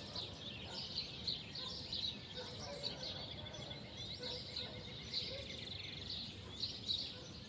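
Many small birds chirping at once, with quick high calls overlapping throughout, over a steady low background hum of the countryside.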